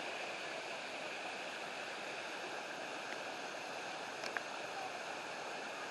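Steady rush of river water running over rocks and falls, with one short click about four seconds in.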